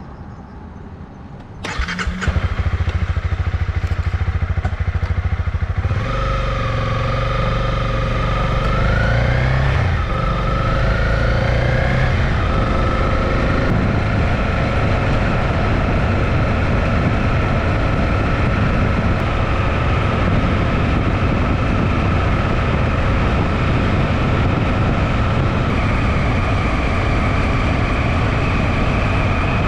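Honda CB250R single-cylinder motorcycle engine catching suddenly about two seconds in and running steadily. It then pulls away with rising revs and a couple of gear changes, and settles into steady cruising.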